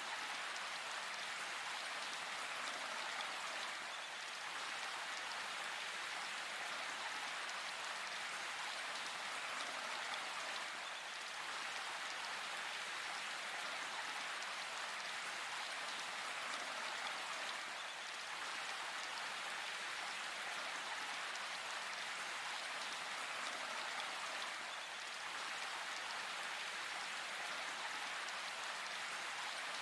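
Steady rain falling in a forest, an even hiss of raindrops without pause.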